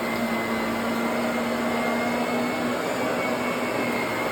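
Vacuum cleaner running steadily, a constant motor hum with a high whine over the rush of air.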